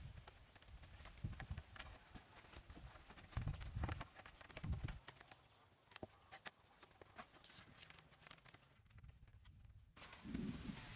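Irregular light knocks and clicks, with a few dull low thuds about one, three and a half and five seconds in.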